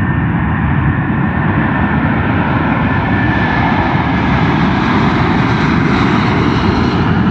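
Boeing 747-400's four Rolls-Royce RB211 turbofans at takeoff power: a loud, steady jet roar with a faint whine, growing brighter and hissier toward the end.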